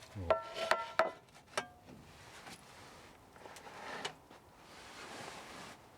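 Four light metallic knocks in the first second and a half, each ringing briefly, followed by soft rustling hiss that swells twice.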